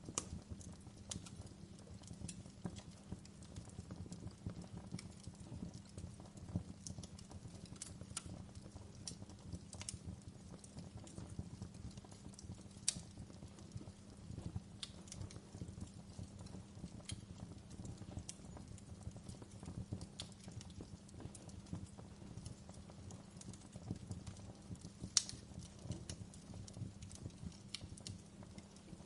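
Wood fire burning in a fireplace, crackling: irregular sharp pops and snaps over a steady low rumble of burning logs, with two louder snaps about halfway through and near the end.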